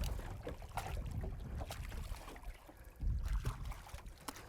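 Wind and water noise around a fishing boat: an uneven low rumble that swells twice, with scattered short knocks and splashes.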